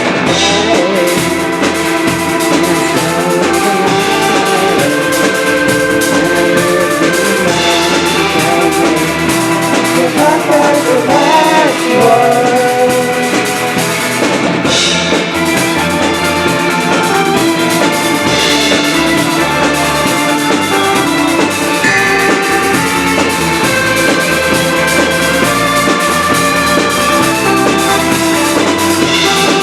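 Live band playing a song, with a drum kit keeping the beat under sustained pitched instruments.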